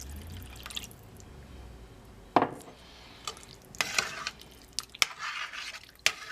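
Utensil clinking and knocking against a cooking pan a handful of times, with soft wet liquid sounds, as a flour-and-butter gravy thickened with water is stirred.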